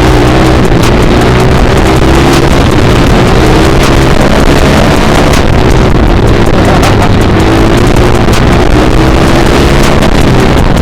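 Small dirt bike engine running under way, its revs rising and falling as it accelerates and eases off, with wind noise on the microphone.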